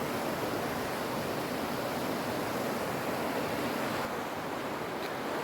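Steady rush of fast-flowing creek water, an even noise that eases slightly about four seconds in.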